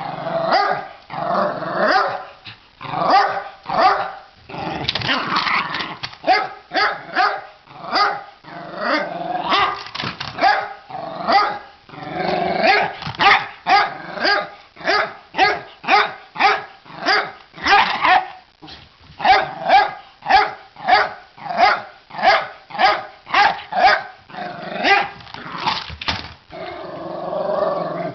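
A dog barking over and over, in long runs of about two barks a second.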